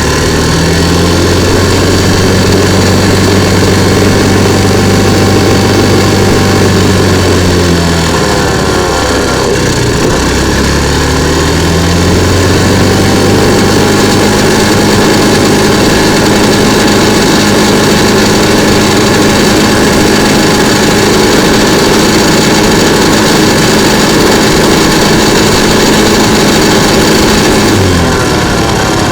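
TaoTao 50cc scooter engine under way: it picks up, holds a steady pitch, eases off around a third of the way in, picks up again and holds, then drops back near the end. It is stuck at about 20 mph, hesitating and bogging with a spitting sound and occasional quiet backfire, which the owner hears as knocking and spitting.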